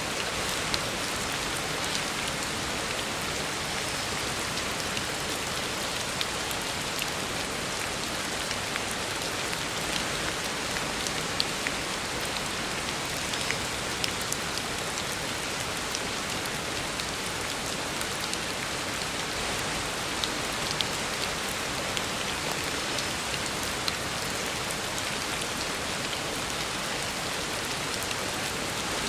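Heavy rain falling steadily on a road: a dense, even hiss of rain with scattered sharper drop splashes throughout.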